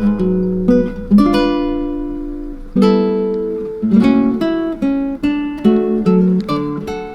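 Acoustic guitar music, plucked and strummed notes ringing and dying away, some chords struck sharply.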